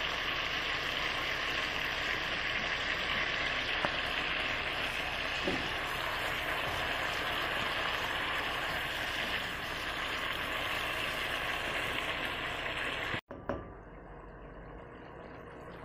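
Chicken pieces sizzling in oil and soy-vinegar sauce in a non-stick pan, a steady hiss with a couple of light knocks from a silicone spatula. About thirteen seconds in it cuts off and gives way to a quieter simmer.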